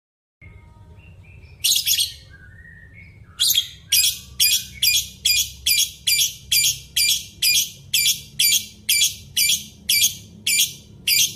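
A bird calling: a pair of harsh, high-pitched notes, then a long, evenly spaced series of the same notes at about two a second, over a low steady rumble.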